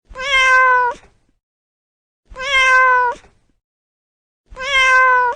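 A domestic cat meowing three times, about two seconds apart: three long, identical meows that hold one pitch and lift slightly at the end.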